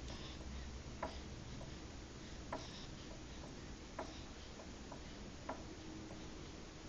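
Soft, regular clicks about every one and a half seconds, with fainter ticks in between, like a ticking mechanism.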